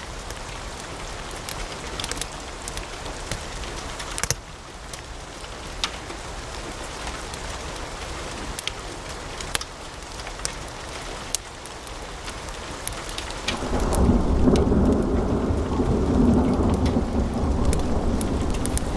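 Wood fire crackling in a fireplace, with scattered sharp pops and snaps over a soft hiss. About three-quarters of the way through, a louder, steady low rumble sets in beneath the crackle.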